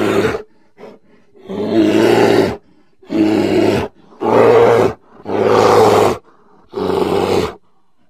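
A bear roaring repeatedly: a run of about six harsh, deep roars, each roughly a second long, separated by short silent gaps.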